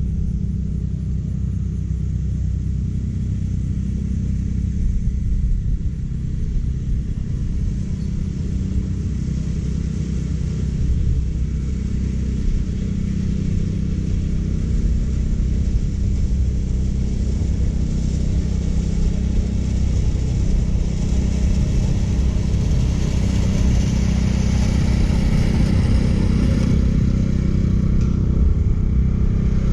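California Trimmer engine-driven reel mower running steadily while cutting short Bermuda grass: a constant low engine drone with the reel's whirr over it. A brighter hiss swells for a few seconds past the middle, then eases.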